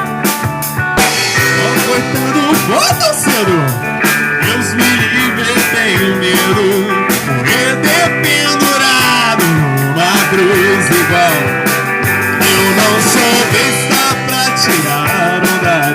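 Live pop-rock band playing an instrumental passage, with a steady drum beat under sliding lead lines.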